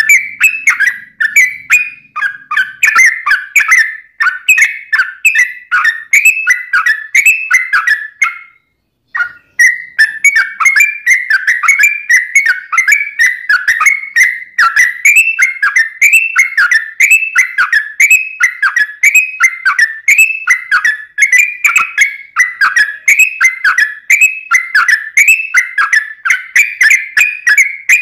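Yellow-vented bulbul (trucuk) singing a long, rapid run of repeated, bubbling whistled phrases, broken by one brief pause about eight and a half seconds in.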